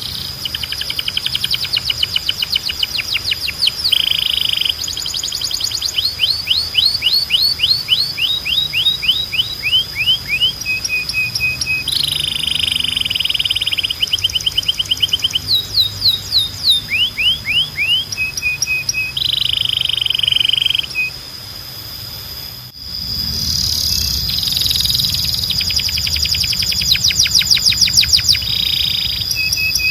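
Domestic canary singing: a run of song phrases, each a fast series of repeated chirps, sweeping notes or buzzy rolls. The song dips briefly just after 21 s, cuts off abruptly about 23 s in, and resumes at once.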